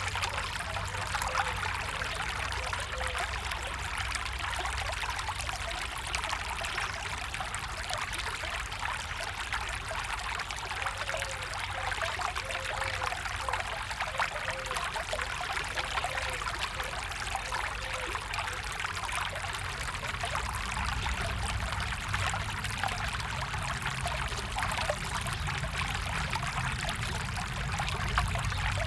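Stream water flowing and trickling steadily, a continuous splashing rush with a low rumble beneath.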